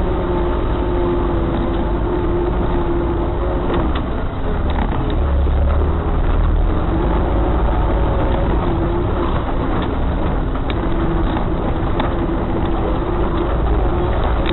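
Off-road 4x4 vehicle driving on rough ground: a steady engine rumble with a constant whine that drops out briefly about four seconds in, and scattered knocks and rattles.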